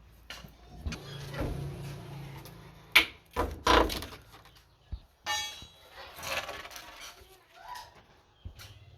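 Hand building work: irregular knocks and clanks of wood and metal with scraping and rustling between them, the sharpest strike about three seconds in.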